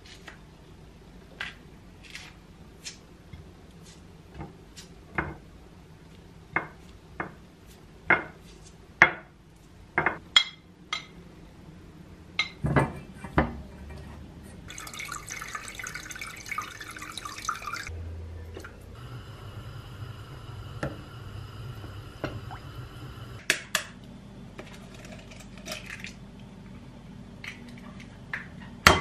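Kitchen work: glass and dishes clinking and knocking, about one sharp knock a second. Then water runs for about three seconds, and after that comes a steady hum for a few seconds, which then stops suddenly. A few more knocks come near the end.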